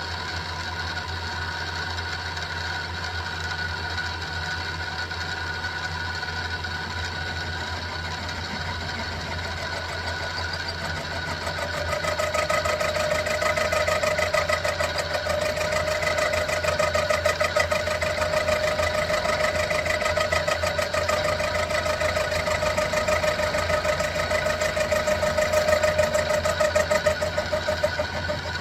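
Sieg X2 mini milling machine running with a steady motor whine; about twelve seconds in the end mill bites into 1045 steel and a louder, rapidly pulsing cutting sound takes over, easing off just before the end.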